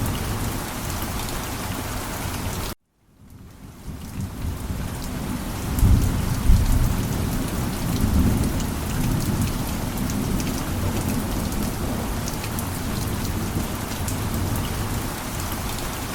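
Heavy rain falling steadily, with a low thunder rumble about six seconds in that lasts a few seconds. Just before three seconds the sound cuts off abruptly to silence, then the rain fades back in, which is a seam in the looped recording.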